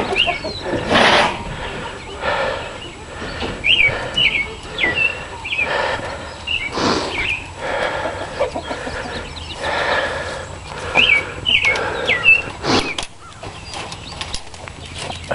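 Birds giving short rising chirps in little clusters, over an irregular rustling noise that comes and goes.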